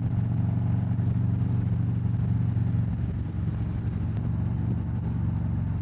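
Harley-Davidson Road Glide V-twin running steadily while being ridden, heard through a rider-worn wireless microphone.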